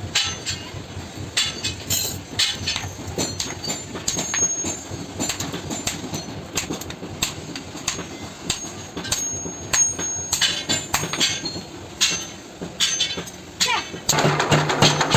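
Irregular sharp knocks and clatter, with two brief high squeals among them. Music comes in near the end.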